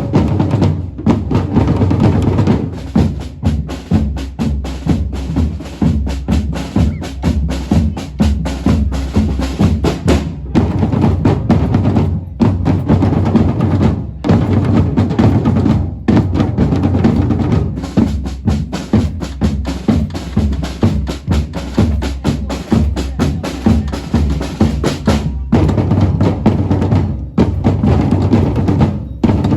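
Drums beating a steady, driving rhythm, with bass drum and snare, as music.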